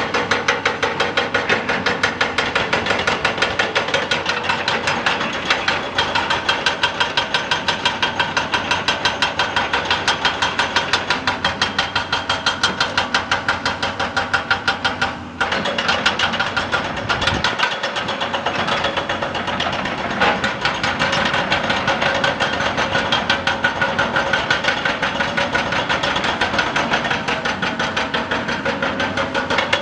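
Excavator-mounted hydraulic rock breaker hammering rock in a fast, steady run of blows, about three to four a second, with a brief pause about halfway through, over the excavator's running engine.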